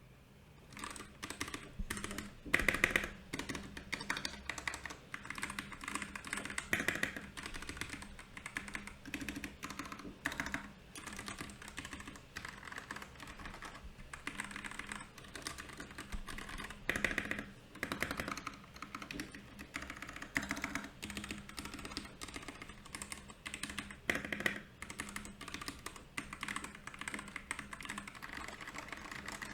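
Continuous typing on a Royal Kludge RK68 mechanical keyboard with brown and milky yellow switches: fast, dense key clicks with a few louder clusters of strokes.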